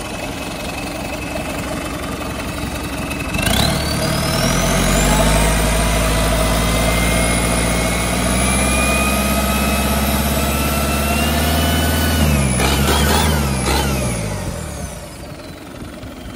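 Hyundai D4AL four-cylinder diesel engine idling, then revved up sharply about three seconds in and held at high revs, with a high whine climbing in pitch. Near the end the throttle is let go and it falls back to idle.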